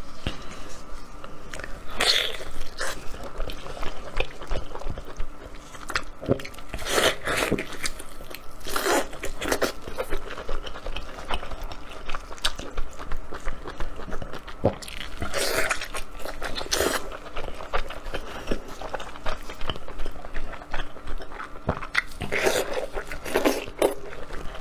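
Close-miked eating sounds: a person biting into and chewing braised pig stomach, with repeated chewing noises and several louder bites spread through.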